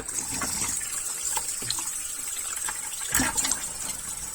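Water running from a tap as a used espresso machine part is rinsed out, with a knock about three seconds in.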